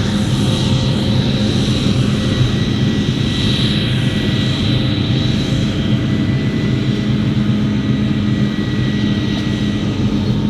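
Heavy diesel farm machinery running steadily under load: a deep engine drone with a thin, high steady whine over it.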